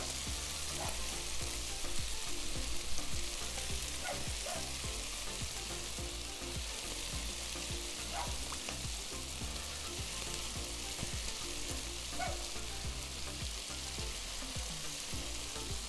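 Chicken skewers sizzling on a hot flat-top griddle as garlic butter Parmesan sauce is brushed onto them, a steady frying hiss.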